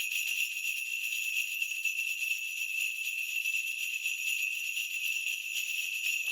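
Korean shaman's ritual bell cluster (bangul) shaken steadily in a continuous high, shimmering jingle during a spirit-divination reading.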